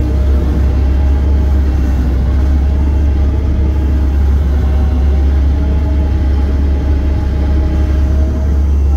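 Diesel engine of a piece of heavy earthmoving equipment running steadily under way, a loud, even low drone with no change in pitch.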